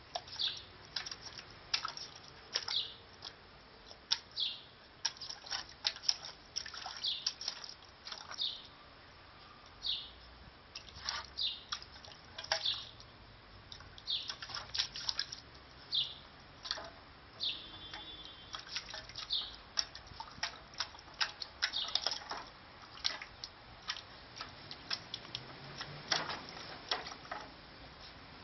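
Small birds chirping over and over in short, high, quickly falling notes. Under them, water splashes and drips in a shallow metal tray as a standard schnauzer puppy paws and noses at it.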